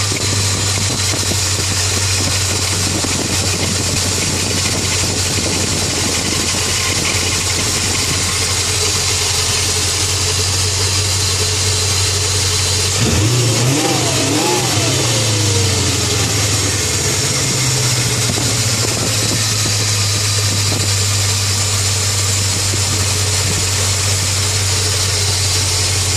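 1995 BMW 740i's M60B40 V8 idling with a squeal from its failing water pump bearing, revved once briefly about 13 seconds in.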